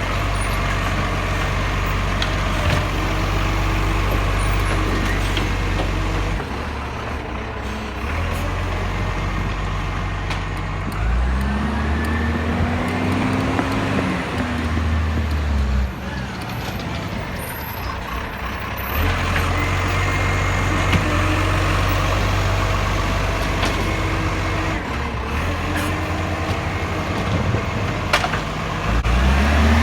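Garbage truck's diesel engine idling, revving up and back down about eleven seconds in and again near the end.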